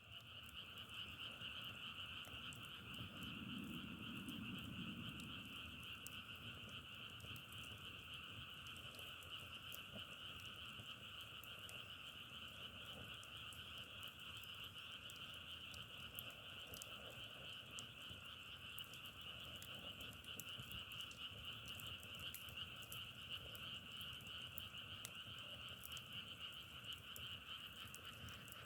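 A dense chorus of many frogs calling continuously and evenly, with faint scattered ticks over it.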